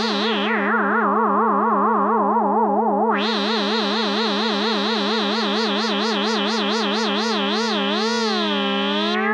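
Synthesizer playing a held low note under a second tone that wavers quickly in pitch, about five wobbles a second. About three seconds in the sound suddenly turns brighter, and near the end the wobble slows to a slow sweep.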